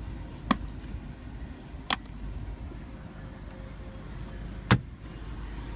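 Three sharp clicks, spaced a second or more apart and the last one loudest, over a low steady hum.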